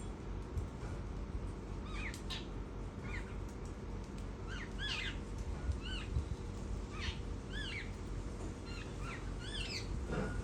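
Garden birds chirping: a run of short, arched call notes, several at once, coming every half second or so, over a steady low background hum.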